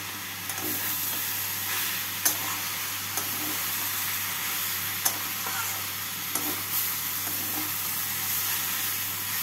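Snake gourd and grated coconut sizzling as they fry in a metal kadai, stirred and tossed with a flat metal spatula. A few sharp clicks of the spatula against the pan stand out, the clearest about two and five seconds in.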